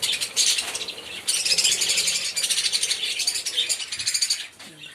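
A flock of lovebirds chattering, a dense stream of rapid high-pitched chirps that thins out near the end.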